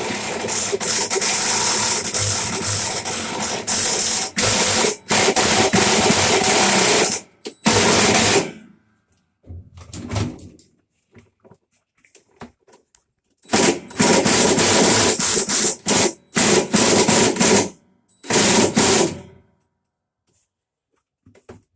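A power tool running hard in several start-stop bursts, the longest about seven seconds at the start, with near-silent pauses between them. It is being used on washer parts that are stuck fast.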